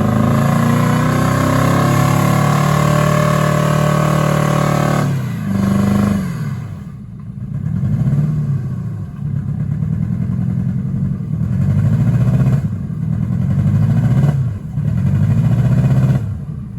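Ford Crown Victoria's 4.6-litre V8 held at high revs for about five seconds, then revved up and down in repeated surges about every two seconds, the car stuck in swampy mud with no traction.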